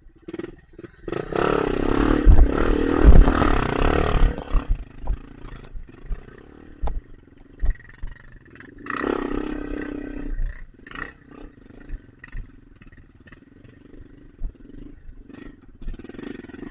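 Trail motorcycle engine revved hard in two surges, the first and longer about a second in and the second near the middle, with heavy knocks and clattering between them.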